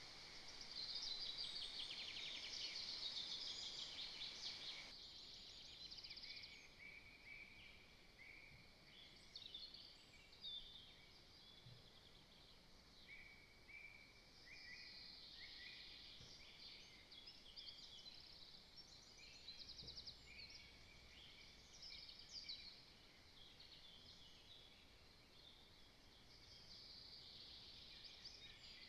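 Faint chorus of small songbirds: many overlapping trills and chirps, busiest in the first few seconds.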